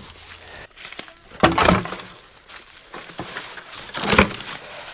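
Two loud cracking knocks about two and a half seconds apart, with lighter clatter and crunching between them, as of firewood being handled and knocked together.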